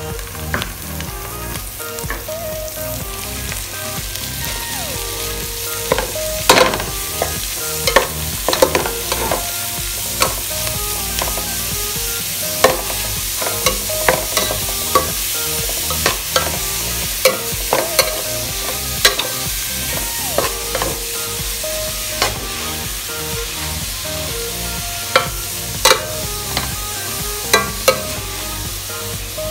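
Ground meat sizzling in an aluminium pot with sautéed onion and garlic, browning in the oil. A metal spoon stirs it, scraping and clinking against the pot at irregular intervals, more often from about six seconds in.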